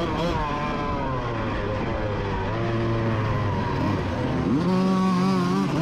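Two-stroke 125 motocross engine of a 1988 Honda CR125 racing, its pitch rising and falling with the throttle: it drops and runs low through the middle, then climbs sharply about four and a half seconds in and holds high.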